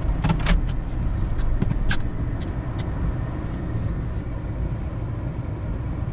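A car heard from inside its cabin: a steady low rumble, with a few sharp taps and clicks in the first three seconds.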